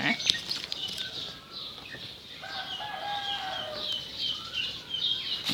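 Birds chirping in quick, repeated high, short downward notes, with a chicken's longer, lower call about two and a half seconds in.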